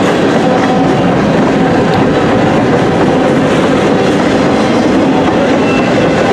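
Freight cars of a passing CSX train rolling by close up: a steady, loud sound of steel wheels running on the rails.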